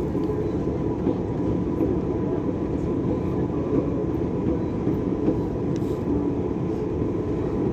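Dubai Metro train running, heard from inside the carriage: a steady rumble of wheels on rail with a faint, steady whine above it.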